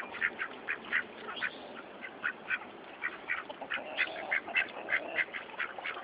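Ducks quacking: a rapid run of short quacks, several a second, with brief gaps between runs.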